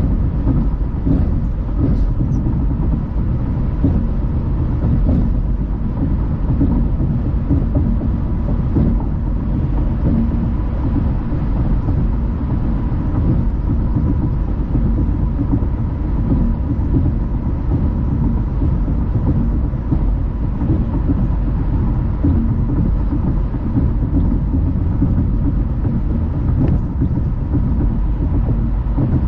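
Car driving noise: a steady low rumble of tyres on the road and the engine, with a faint steady whine above it.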